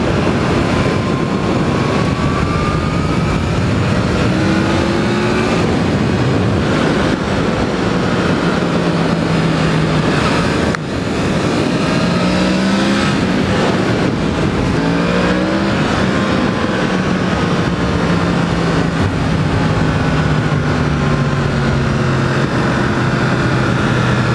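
Yamaha MT-10 motorcycle's crossplane inline-four engine pulling along the road, its pitch rising and falling several times as the throttle is opened and eased, with a brief break about eleven seconds in. Wind noise from riding speed runs underneath.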